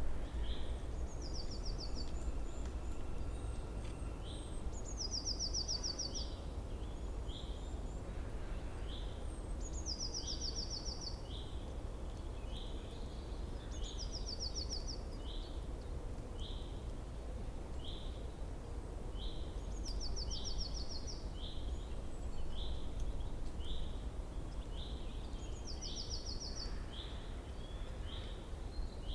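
Small birds calling outdoors: a short, high note repeated about once a second, and a quick, higher trill every four to six seconds. Under them is a steady low background rumble.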